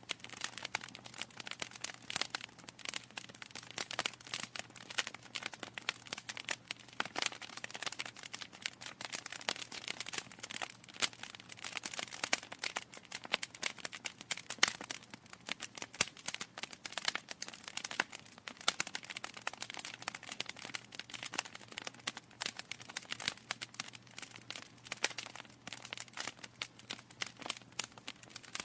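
Wood fire in a fireplace crackling, with dense, irregular snaps and pops over a soft hiss.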